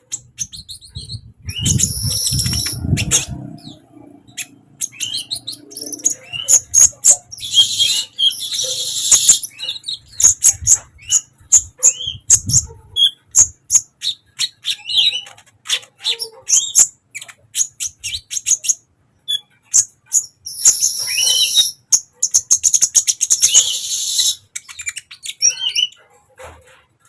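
Kolibri ninja sunbird singing: a run of sharp, high, quick chirps and ticking notes, broken by three longer, dense, buzzy trills, about two seconds in, around eight seconds in, and again from about twenty-one seconds in.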